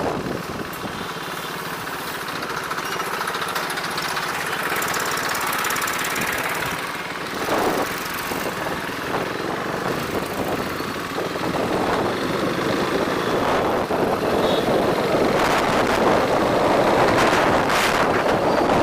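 Ride noise on a motorbike moving through city streets: engine and traffic sounds mixed with wind on the microphone, growing louder toward the end.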